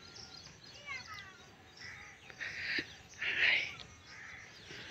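Birds calling: a few falling chirps about a second in, then three or four short harsh calls over the next couple of seconds.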